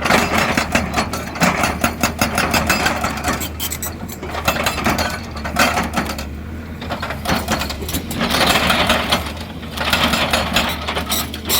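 XCMG XE200DA hydraulic excavator at work: its diesel engine runs steadily under a fast rattling clatter and repeated knocks, with surges of scraping, grinding noise at the start, about eight seconds in and near the end.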